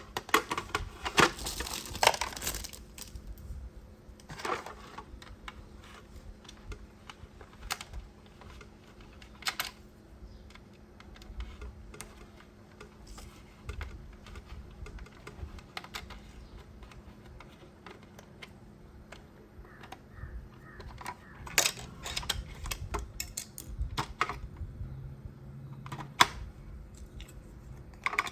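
Irregular small clicks and clatter of hard plastic toy parts and packaging being handled, with a dense run of clicks in the first couple of seconds and more near the end.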